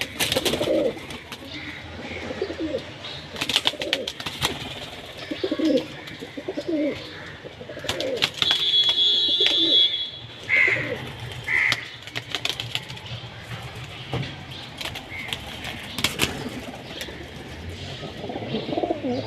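Pigeons cooing, low throaty coos repeated every second or two, among scattered sharp clicks. About halfway through there is a brief high steady tone, followed by two short chirps.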